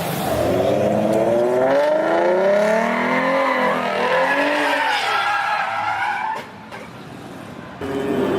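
Car engine revving up and down with tires squealing, as in a skid. The sound drops away about six and a half seconds in and comes back loud near the end.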